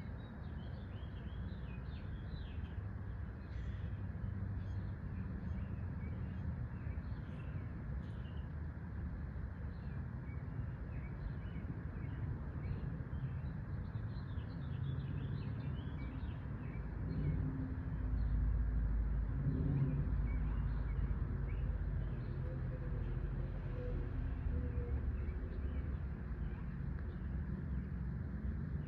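Small birds chirping, many short calls overlapping throughout, over a steady low rumble that swells for a few seconds about two-thirds of the way through.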